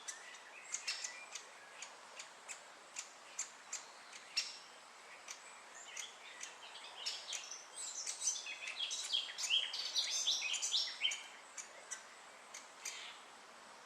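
Great spotted woodpeckers calling: sharp single high 'kik' notes repeated every half second or so, then a busier run of chattering calls for a few seconds in the second half.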